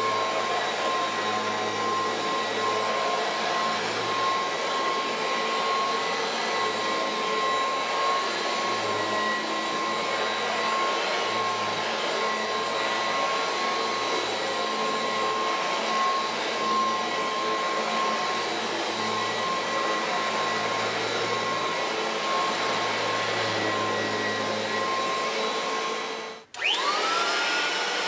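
Kirby Heritage II upright vacuum cleaner running steadily, its motor giving a steady whine over the fan's rush. Near the end it cuts out for a moment and comes back with a quick rising whine that settles at a higher pitch.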